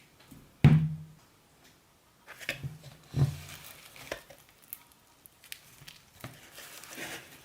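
Close-miked food-handling and eating sounds: two dull thumps, one about a second in and a louder-low one about three seconds in, among soft rustles and stirring.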